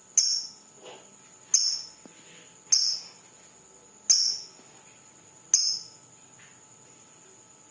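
Putri Salju lovebird giving five loud, shrill, very high chirps, evenly spaced about a second and a half apart, each cut off short.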